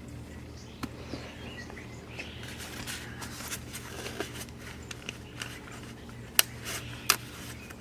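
Small clicks and taps of hands handling parts and containers, over a steady low hum, with two sharper clicks near the end.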